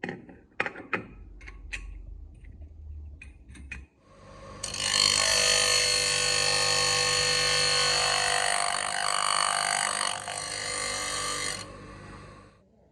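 A few sharp metal knocks and clicks, then a power tool starts and runs steadily for about seven seconds before cutting off near the end.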